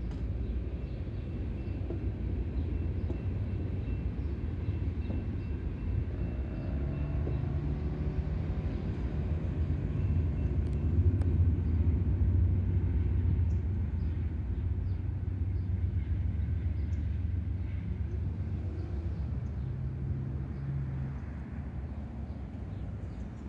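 BNSF train rumbling past, with a low engine drone that comes in about seven seconds in, is loudest around twelve seconds, then slowly fades.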